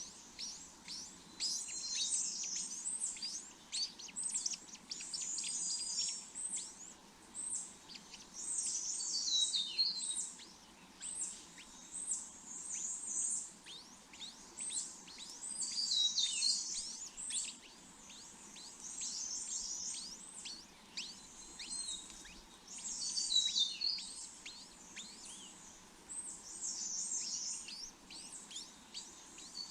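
Small birds chirping: a steady run of quick high-pitched chirps, with a flurry of descending notes about every seven seconds.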